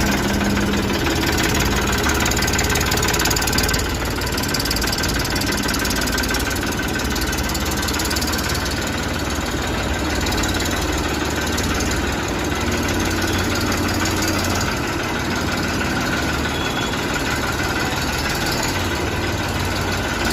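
Eicher tractor's diesel engine running steadily at low revs, dropping slightly in level about four seconds in.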